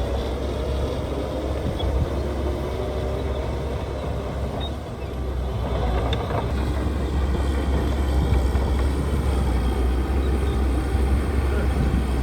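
Diesel engine of heavy earthmoving machinery running with a steady low rumble. It eases briefly about five seconds in, then runs a little louder.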